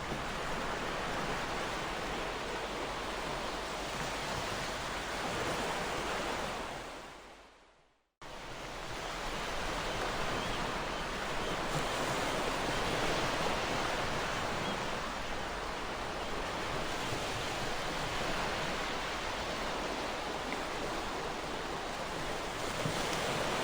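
Ocean surf: a steady wash of waves breaking on the shore. About seven seconds in, the sound fades away to silence, then cuts straight back in at full level, like a recording looping.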